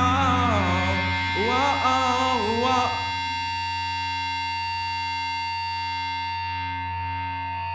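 Progressive rock song with a sung vocal line over the band. About three seconds in the singing and the full band drop away, leaving a sustained chord ringing on steadily and fading slightly.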